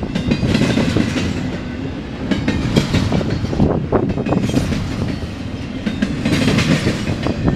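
CSX intermodal freight train's cars rolling past, wheels clacking steadily over the rail joints.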